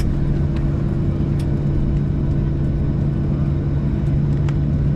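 Steady cabin drone of a Boeing 737-700 on the ground after landing: a continuous low hum with two steady tones and a few faint ticks.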